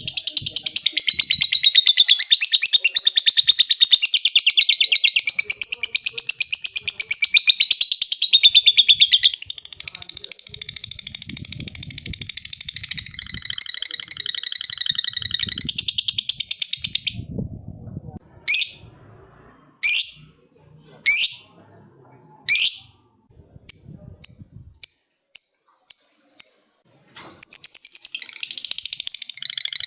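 Lovebird's long chattering trill ('ngekek'): a loud, rapid, unbroken run of shrill buzzy notes lasting over fifteen seconds. It then breaks into a handful of separate sharp chirps, then a quicker series of short chirps, and the long chatter starts again near the end.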